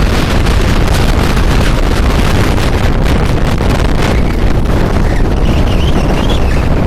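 Strong wind buffeting the microphone over the steady wash of big sea waves.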